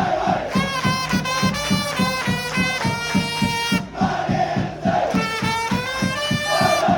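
Baseball cheering section's trumpets playing a scoring song over a steady bass drum beat, with the crowd singing and shouting along.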